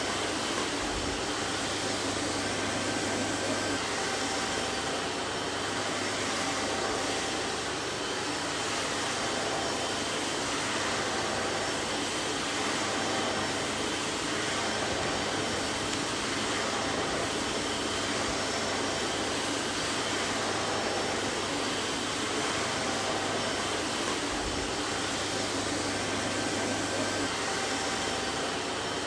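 Vacuum cleaner running steadily: an even whooshing rush of air with a faint motor hum and whine held at one pitch.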